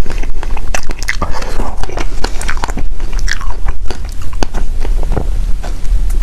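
Close-miked chewing of food with wet mouth clicks and smacks, several a second at an irregular pace, over a steady low hum.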